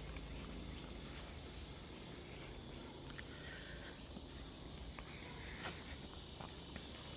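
A faint, steady, high-pitched insect chorus with a few faint clicks scattered through it.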